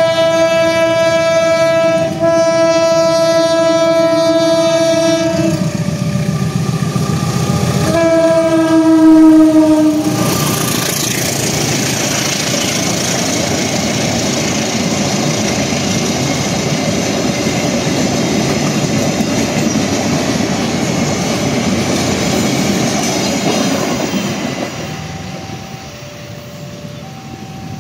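Train's air horn sounding a long blast, then a second shorter blast that sags in pitch as it stops. The train then rolls past with a steady rumble and wheel clatter on the rails, which fades away near the end.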